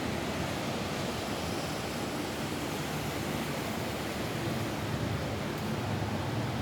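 Steady rain falling on a roof, an even rushing hiss.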